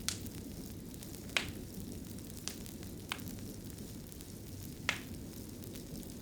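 Wood fire burning in a fireplace: a steady low rumble of flames with sharp crackling pops, five in a few seconds, the loudest a little over a second in and near five seconds.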